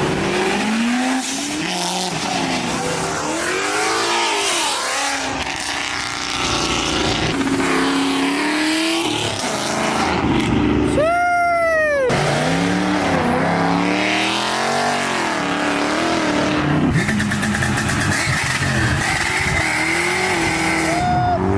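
Performance car engines revving hard, the pitch climbing and dropping again and again, over a steady hiss of tyre noise typical of a burnout. About halfway through there is one sharp, steep rev.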